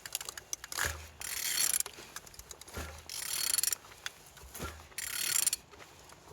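A used engine being turned over by hand, its crankshaft rotated in three strokes, each a dull knock followed by about half a second to a second of ratcheting and rubbing. The engine is turning freely.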